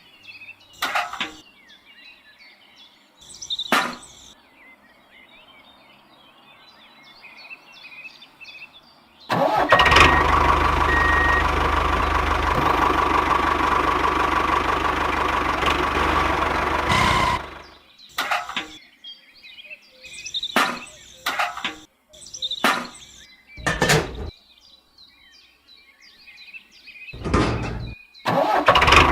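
A small engine starts about nine seconds in, runs steadily for about eight seconds and cuts off suddenly, then starts again near the end. Sharp knocks come before and between the two runs.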